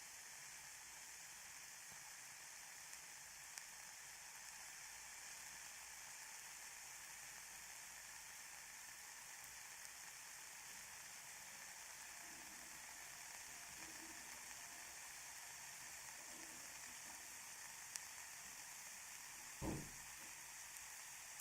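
Ear candles burning in both ears at once: a faint, steady hiss with a few tiny ticks. A short, soft low thump comes near the end.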